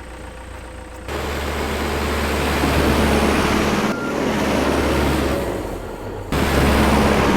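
Diesel engine of heavy snow-clearing equipment (skid steer or backhoe) running under load, with a broad noisy layer over the low engine tone. It gets suddenly louder about a second in, eases off around four seconds and again near six, then jumps back up abruptly.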